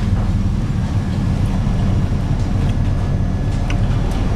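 Steady low rumble of a ship's engines under way, with no change through the stretch.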